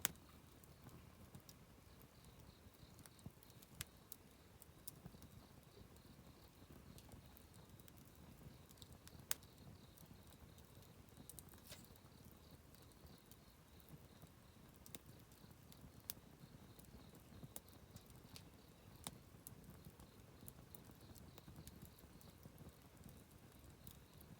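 Wood campfire burning quietly, crackling with irregular sharp pops, a few of them louder, over a soft low rush.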